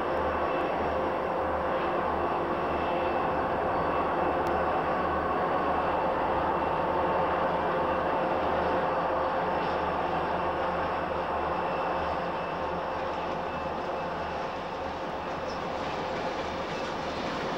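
A train running steadily past: a constant drone with a few held tones over a low rumble, easing a little in level about twelve seconds in.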